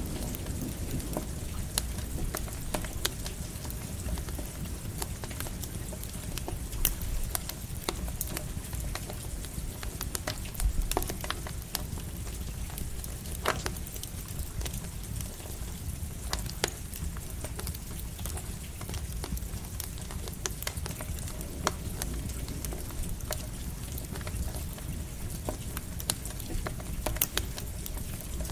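Campfire crackling, with irregular sharp pops and snaps, over a steady hiss of light rain and a low rumble.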